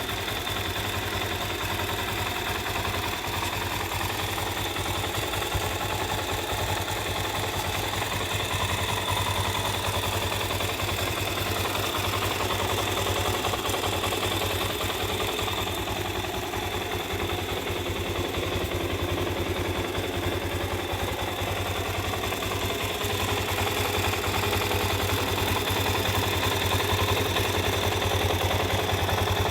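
Suzuki DR-Z400S single-cylinder four-stroke engine idling steadily through its stock muffler, getting a little louder near the end.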